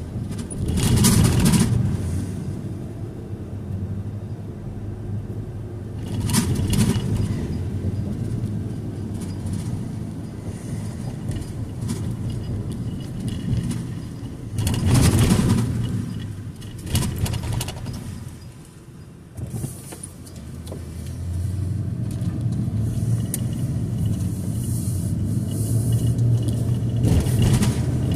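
A car driving, heard from inside the cabin: a steady low engine and road hum, with louder swells of tyre and passing-traffic noise several times. It goes quieter for a couple of seconds past the middle, then builds again.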